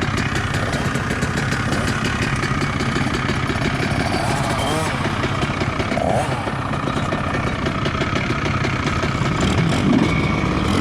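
Motocross bike engine idling steadily, with indistinct voices over it.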